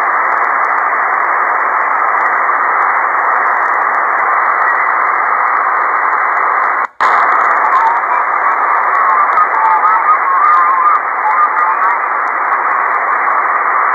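Ham radio receiver in single-sideband mode giving out steady band-noise static, a hiss held in a narrow voice-width band. About halfway through the audio drops out for a moment, then faint wavering squiggles of weak, unreadable signals come through the hiss.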